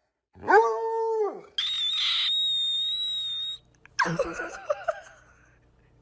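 Dog howling: one held note of about a second that drops in pitch at the end. Then a high steady squeal for about two seconds, followed by a short jumble of yelping calls.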